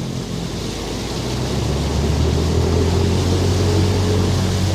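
Motor vehicle engine running with road noise, a low hum that grows louder about a second and a half in and then holds steady.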